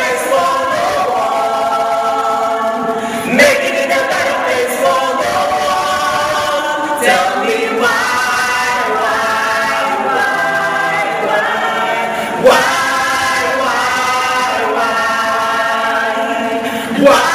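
A group of voices singing together, holding long notes, with a fresh phrase starting on a sharp accent every four to five seconds.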